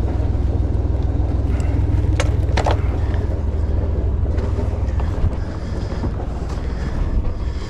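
Sailboat's engine idling steadily, with a couple of short knocks a little over two seconds in.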